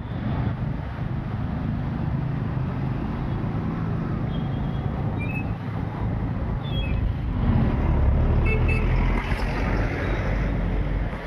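Road traffic and engine rumble, with a few short, high-pitched toots scattered through the middle.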